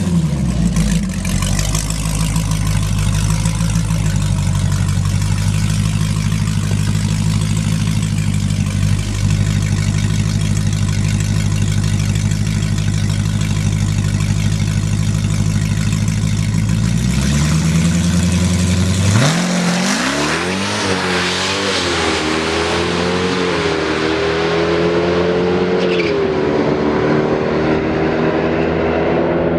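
Drag-racing car's engine running at a steady low idle, then revving up about two-thirds of the way in and launching, its pitch climbing as it accelerates down the strip, with a brief drop near the end like a gear change.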